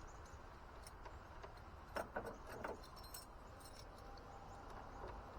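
Faint handling sounds: a few sharp clicks about two seconds in, then light metallic jingling a moment later.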